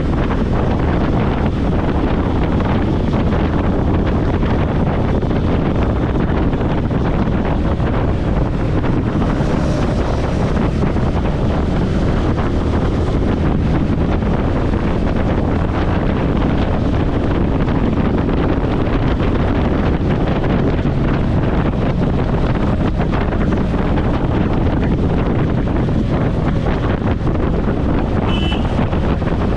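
Wind buffeting a helmet-mounted camera microphone on a moving motorcycle, with the bike's engine and road noise running steadily underneath. A brief high beep sounds near the end.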